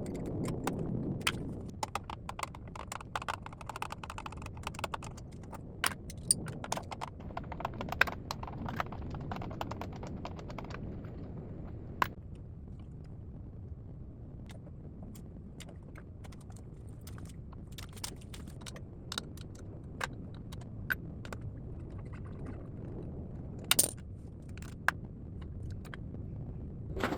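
Scattered clicks and light metallic clinks of hand tools and small metal parts being handled while a carburetor is taken off a small motorcycle, over a low steady background noise. A few sharper knocks stand out, one about 12 seconds in and a pair near the end.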